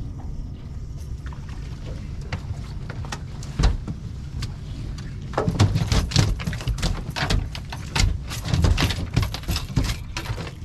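Knocking and clattering of gear being handled in a fishing boat, dense from about halfway on, over a steady low rumble.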